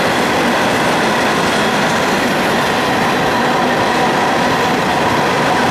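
Florida East Coast Railway freight train's hopper cars rolling steadily across a trestle bridge: continuous wheel-on-rail noise, with a thin steady high tone running over it.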